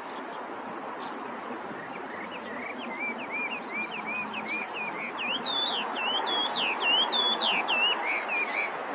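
Chinese hwamei singing: a run of repeated, looping whistled notes starting about two and a half seconds in, climbing higher and louder through the second half, over a steady background hiss.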